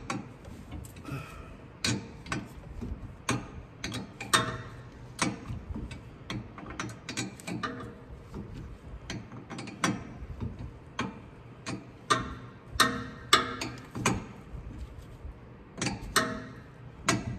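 Hand ratchet clicking in short irregular strokes as the drive shaft bolts are run down until they are tight.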